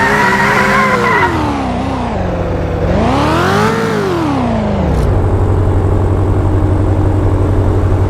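Drift car engine held at high revs, then easing off, revved once more to a peak about four seconds in, and dropping back to a low steady idle from about five seconds in.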